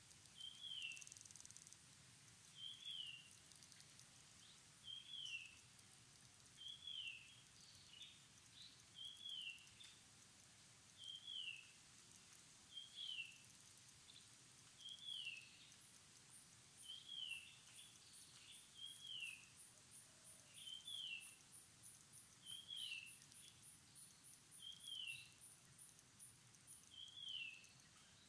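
Faint outdoor ambience with a bird repeating a short, falling whistled note about every two seconds. From about halfway through, an insect adds a rapid train of very high, faint pulses.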